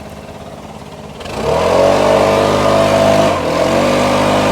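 Small petrol engine on lawn equipment throttled up from a low idle to full speed about a second in, then held steady at high revs, with a brief dip about three seconds in.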